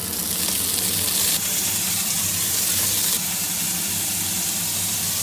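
Chopped bacon and browned garlic sizzling in hot oil in a wok, a steady frying hiss.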